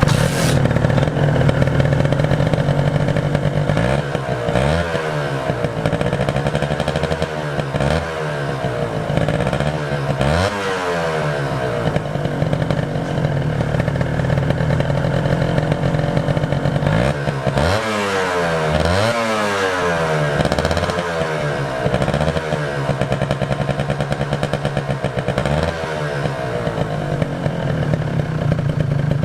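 Kawasaki Ninja 150 RR's single-cylinder two-stroke engine idling, blipped on the throttle again and again so the revs rise and fall several times.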